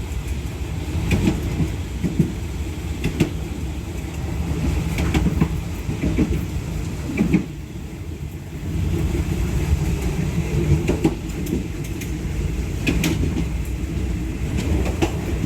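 Passenger train running on the track, heard from the rear of the last carriage: a steady low rumble of wheels on rails with irregular clacks and knocks every second or so. It eases briefly about halfway through.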